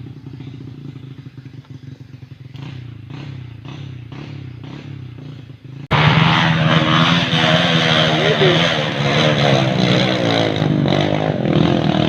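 Motorcycle engine running at a steady idle while it warms up, then suddenly much louder about halfway through, revving with its pitch wavering up and down as the throttle is worked.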